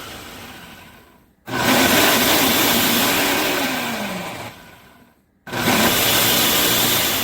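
Countertop blender motor running in short bursts, each starting abruptly and dying away over a few seconds before a brief pause, with the pitch wavering as the load shifts. Loud enough that the user wears earmuffs for it.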